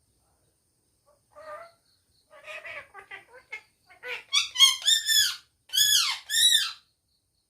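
Pet parrot vocalizing: a short call, then soft chattering, then a run of loud, arched squawking calls in the second half.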